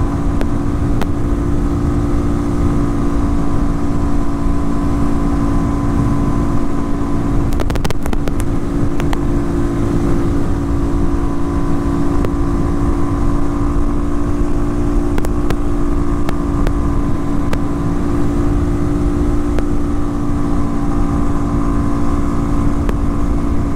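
Kawasaki KLX250's single-cylinder engine running steadily at high revs while the bike cruises at highway speed, its engine note holding an even pitch throughout, over a constant rush of wind.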